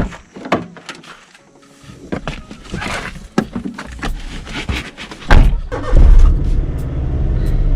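A few clicks and knocks, then a motorcycle engine starts about five seconds in and runs on steadily at idle.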